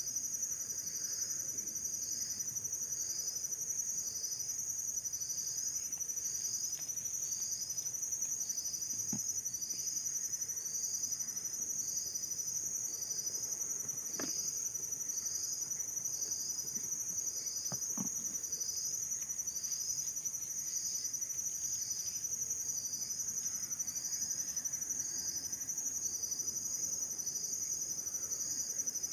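Insects trilling steadily in a high continuous buzz, with a second insect chirping about once a second; a few faint knocks are heard in the middle.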